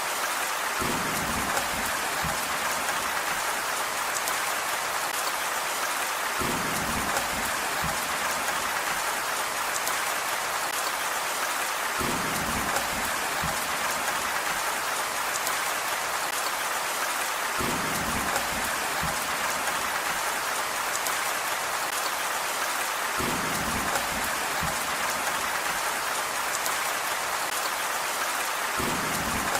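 Steady, dense rain hiss, with a short low rumble coming back about every five to six seconds.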